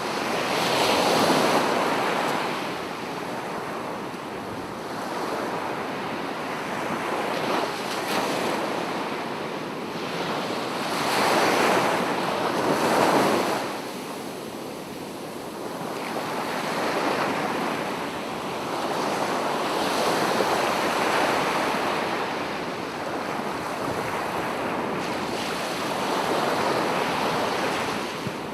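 Sea waves breaking and washing up a beach in slow surges, each swelling and easing over several seconds, the loudest about twelve seconds in.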